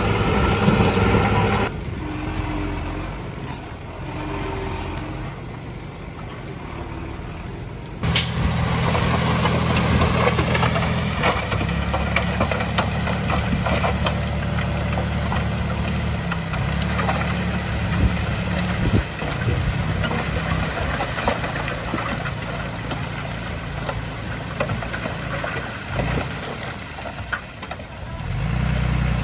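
Heavy diesel engines of earthmoving machinery running steadily. The sound drops to a quieter rumble about two seconds in and comes back loud and sudden about eight seconds in.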